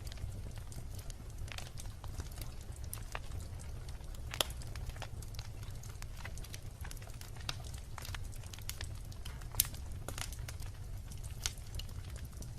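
Wood bonfire crackling, with irregular sharp pops over a steady low rumble. Two louder pops come about four and a half and nine and a half seconds in.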